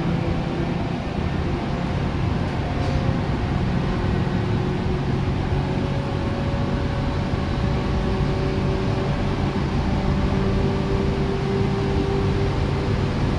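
Tokyu 8500 series electric train running, heard from inside the car over the line breaker: a steady low rumble of wheels on rail with a few steady humming tones.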